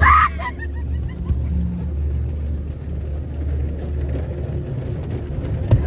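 Steady low rumble heard from inside a car in a car wash, with a short voice-like cry right at the start.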